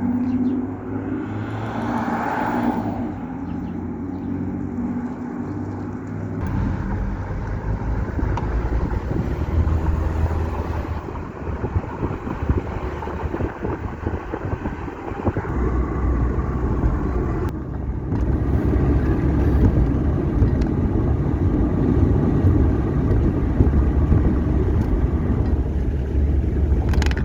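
A car driving: the engine running under a steady low rumble of road and tyre noise.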